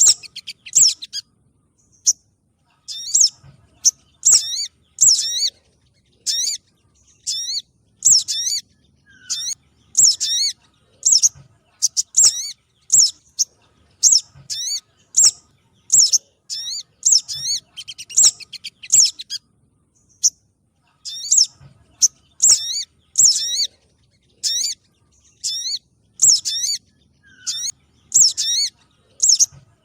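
Lure recording of spiderhunter (sogon trotol) calls: short, sharp, high chirps with quick sweeping notes, repeated about once or twice a second without a break.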